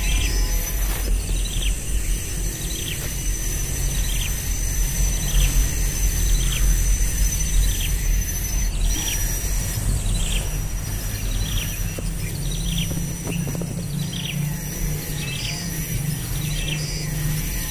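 A bird giving short chirps that fall in pitch, about one a second, over a steady high-pitched whine.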